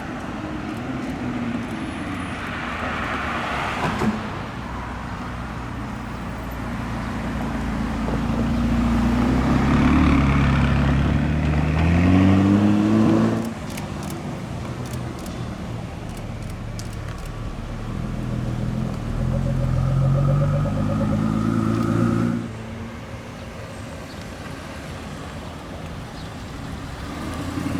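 Sports car engines accelerating hard, the engine note rising in pitch twice: once over several seconds, ending abruptly about halfway through, and again near the end, also cut off sharply. A short sharp click comes about four seconds in.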